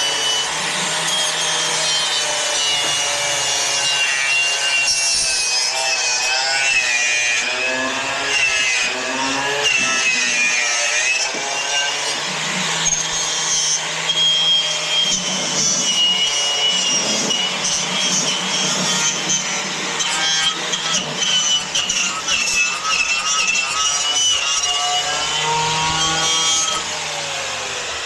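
Angle grinder with a cutoff wheel cutting through sheet metal, a continuous loud grinding with a whine that wavers in pitch as the wheel is loaded and eased off.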